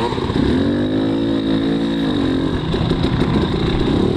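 Two-stroke 300 dirt bike engine under riding throttle: the revs climb in the first second, hold for about a second, then drop back and run unevenly at part throttle.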